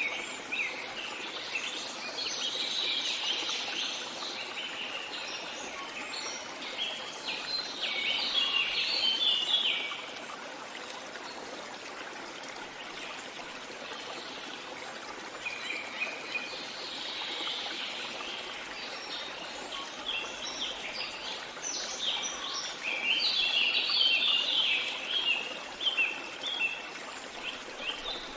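Running stream with a steady rush of water, and songbirds chirping busily over it in bouts, with a lull of several seconds in the middle.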